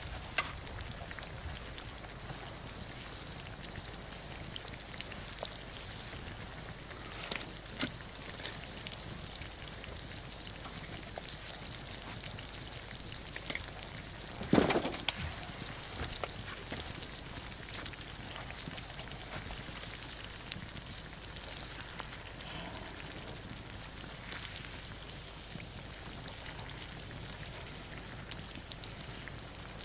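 Ajillo sizzling in a cast-iron skillet over a wood campfire: a steady hiss of hot olive oil with scattered crackles and pops, and one louder knock about halfway through.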